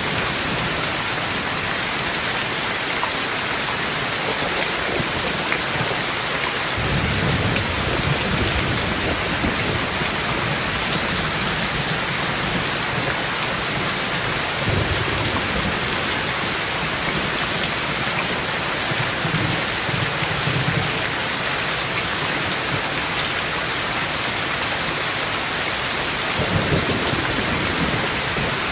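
Rain falling steadily, with several low rumbles of thunder swelling and fading.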